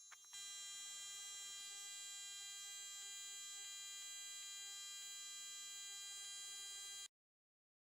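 Steady electric hum with a whine of many even overtones, starting just after a couple of clicks, with a few faint ticks through it; it cuts off suddenly about seven seconds in.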